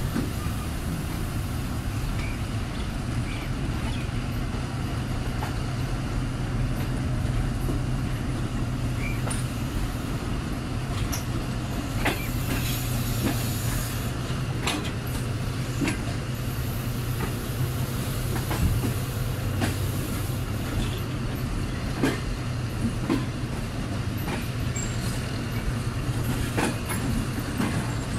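Diesel-hauled passenger train rolling slowly out of a station yard, heard from an open coach door. A steady low drone of the train running, with irregular sharp clicks as the wheels cross rail joints and points.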